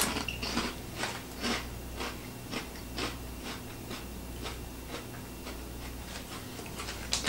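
A person chewing a mouthful of oven-baked crunchy corn cheese curls, a crisp crunch about twice a second, the first bite the loudest.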